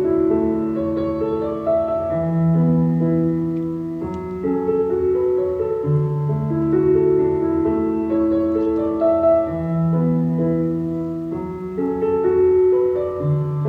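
Background music: a slow piano piece of held chords, with a low bass note changing about every three to four seconds.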